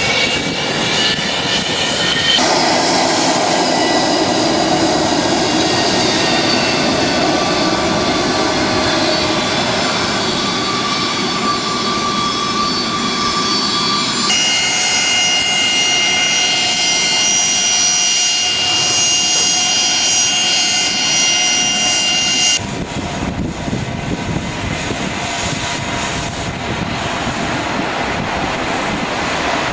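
Jet airliner engines running with a steady high whine. The sound changes abruptly three times, about 2, 14 and 23 seconds in, as separate recordings are spliced together.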